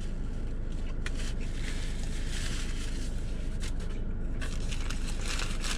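A person chewing a mouthful of burger close to the microphone, with a few soft clicks and rustles, over a steady low hum in the car cabin.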